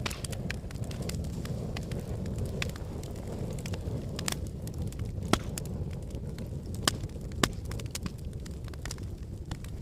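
Fire in a fireplace crackling steadily over a low rumble of flame, with many small sharp crackles and a few louder pops around the middle.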